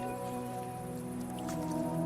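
Slow ambient music of long held chords, the chord changing about as it starts, over light rain with scattered drips.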